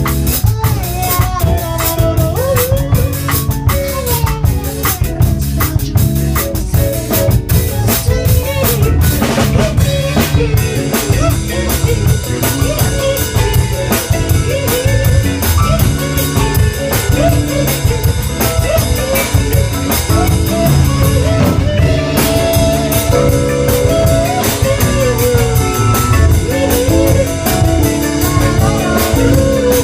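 A band playing live in rehearsal, with drum kit, guitar and a gliding melody line on top. About ten seconds in, the drums change from sharp separate hits to a steady cymbal wash.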